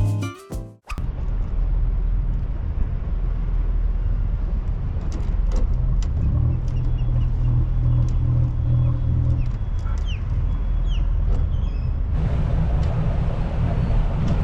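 Music cuts off within the first second. Then a boat's motor runs steadily with a low hum, and a few faint high chirps come through in the middle. About twelve seconds in, a wind hiss on the microphone grows louder.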